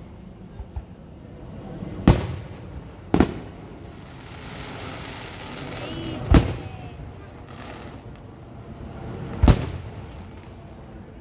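Fireworks display with aerial shells bursting overhead: four loud bangs at uneven gaps, each trailing off in a short echo.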